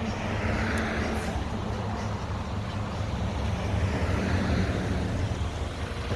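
Heavy vehicle engine running steadily with a low rumble, over traffic noise.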